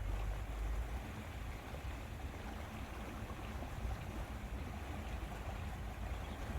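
Steady lakeside ambience: wind rumbling on the microphone over an even wash of lake water.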